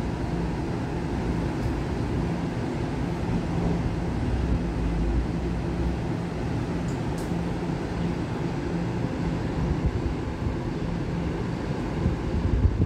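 A Taiwan Railway train running at the station: a steady low rumble with a steady hum over it, and a couple of faint high clicks.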